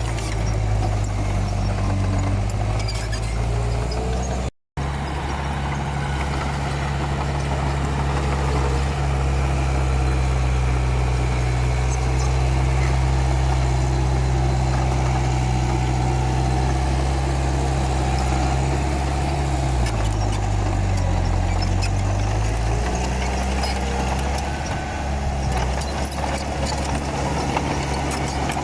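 Komatsu D31P bulldozer's diesel engine running steadily, its pitch dipping for a couple of seconds about twenty seconds in and then coming back up. The sound cuts out for a moment about five seconds in.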